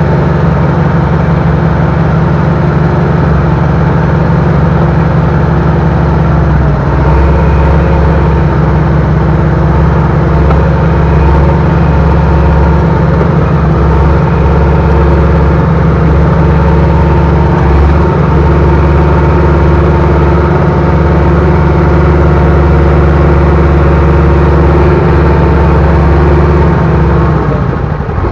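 Heavy equipment engine running steadily close by, its low rumble growing heavier about seven seconds in as it takes on more load.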